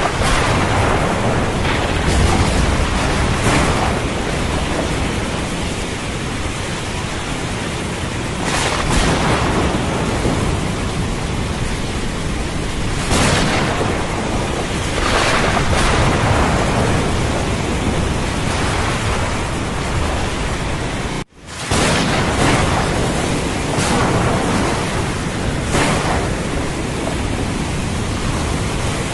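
Thunderstorm: steady heavy rain with repeated swells and rumbles of thunder every few seconds, over ocean surf. The sound cuts out for a split second about two-thirds of the way through.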